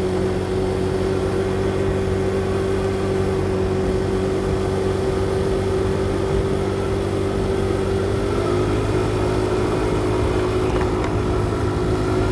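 Motorcycle engine running steadily under load while climbing a steep hill, heard from a helmet-mounted microphone with wind and road noise. The engine note shifts slightly about eight seconds in.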